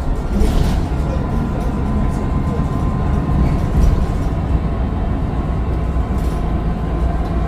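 Mercedes-Benz Citaro O530 bus's Daimler OM906 6.4-litre diesel running under way, a steady turbo whine over a heavy low engine and road rumble.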